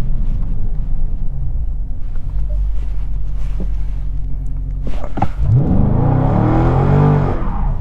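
Dodge Charger Scat Pack's 6.4-litre V8 rumbling at a low steady pace. About five seconds in come a couple of sharp cracks, then the engine revs hard, its pitch climbing steeply for about two seconds before easing off near the end.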